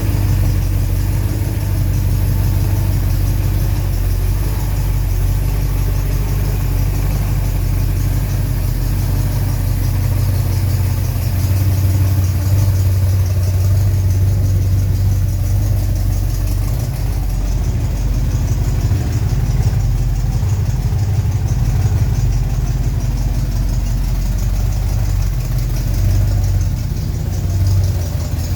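Car engine idling steadily, with no squeal from the V-belt (drive belt).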